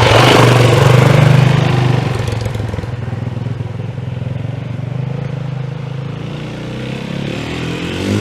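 Yamaha WR450F single-cylinder four-stroke dirt bike engine running loud close by, then dropping to a quieter steady level about two seconds in as the bike moves off. Near the end the engine pitch rises.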